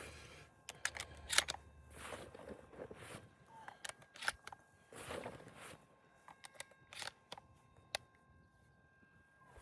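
Quiet handling noise: scattered light clicks and rustles, one sharper click about eight seconds in, with a faint steady high tone throughout.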